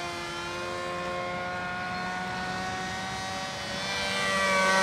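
Electric RC model aircraft's motor and propeller running at a steady drone in flight. Near the end it grows louder and rises in pitch.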